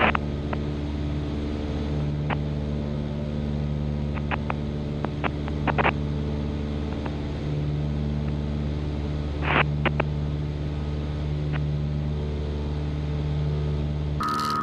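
Cessna 172's four-cylinder piston engine and propeller running steadily in flight, heard inside the cockpit, with a few short clicks here and there.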